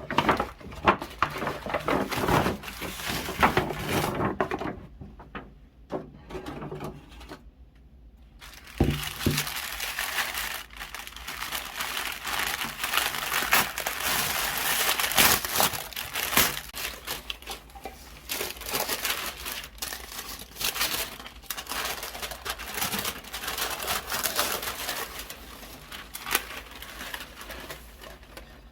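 Sandpaper rubbed back and forth by hand over a wooden cutting board in uneven scratchy strokes, pausing briefly before resuming with a knock about a third of the way in.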